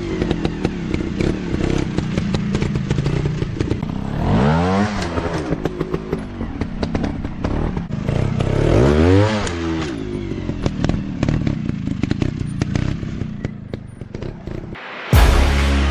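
Dirt bike engines revving up and falling back in swells about every four to five seconds, with clattering and scraping between the revs. Music comes in near the end.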